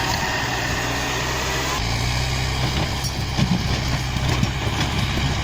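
Heavy diesel engine of a logging machine, most likely an LKT-81 wheeled skidder, running steadily under load. About two seconds in, the engine note steps up a little higher and louder.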